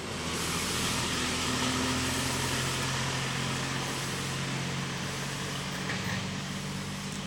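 A motor vehicle engine running with a steady low hum, loudest about two seconds in and slowly easing off.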